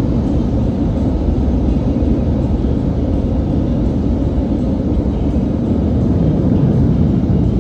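Steady low vehicle rumble, as of a car being driven.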